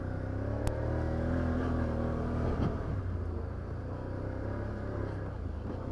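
Can-Am Outlander 850 XT ATV's V-twin engine running while riding along a trail, its pitch climbing a little and then easing off over the first couple of seconds; a single sharp click sounds near the start.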